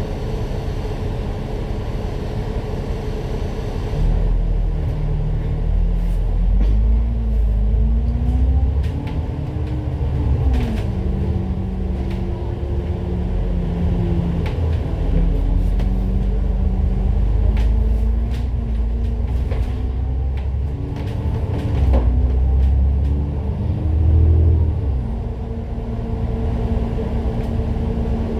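A city bus heard from on board, pulling away and accelerating. Its engine note climbs in pitch and drops back several times as it goes up through the gears, over a heavy low rumble. Before it moves off, the sound is steadier, then it gets louder about four seconds in.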